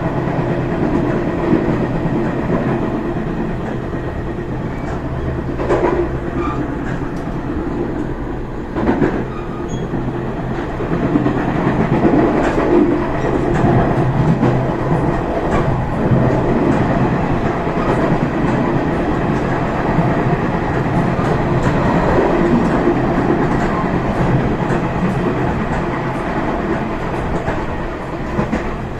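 Passenger train running on rails: a steady rumble of wheels on track with a clickety-clack from the rail joints.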